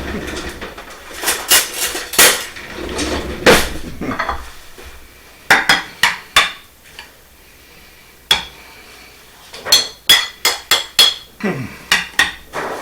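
A serving utensil scooping stuffing out of a baking dish and onto a plate: a string of irregular clinks, knocks and scrapes of metal on dishware, with a quick run of ringing clinks about ten seconds in.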